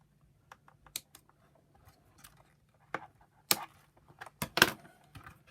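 Irregular sharp clicks and snaps of plastic parts and a cable tie being handled and worked by hand, the loudest a few clustered snaps about three and a half and four and a half seconds in.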